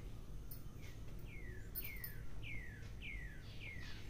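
A bird calling: a short downward-sliding whistled note repeated about six times, roughly twice a second, over a faint steady low hum.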